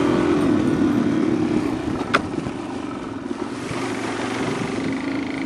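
A 400 dirt bike's single-cylinder engine running at steady, moderate revs while riding, with wind noise on the microphone. There is one sharp tick about two seconds in, and the engine eases off slightly about halfway through.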